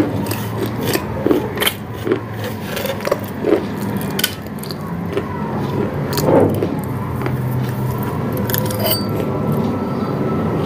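Close-up chewing and crunching of a hard white food: many short sharp crunches through the first half, thinning out later. A steady low hum runs underneath.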